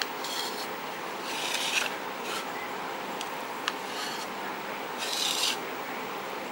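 Several short scraping strokes, the longest about half a second, with a few light clicks between them, typical of a kitchen utensil scraped against a vessel. A steady hum runs underneath.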